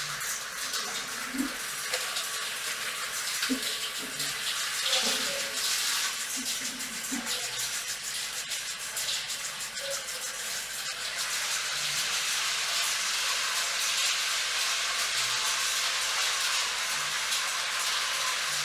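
Steady hiss of running water from a salon wash-basin spray rinsing hair, mixed with heavy rain on a metal roof.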